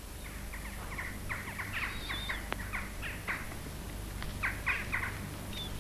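Birds calling: quick clusters of short chirps with a thin, wavering whistle now and then.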